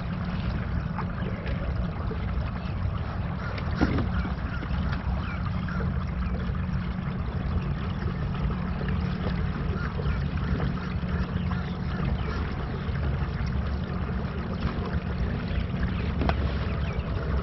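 A fishing kayak under way: a steady low hum with a constant wash of water and wind noise. There are two single knocks, one about four seconds in and one near the end.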